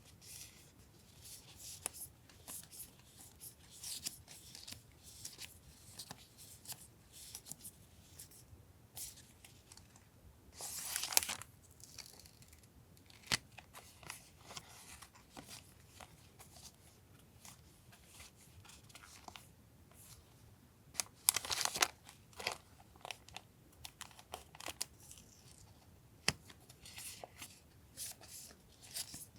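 Paper stickers and memo-pad sheets being handled: soft rustling and small ticks, with two longer, louder paper rips about eleven and twenty-one seconds in.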